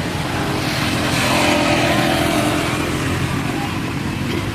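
Engine of a passing motor vehicle, growing louder about a second in and then easing off.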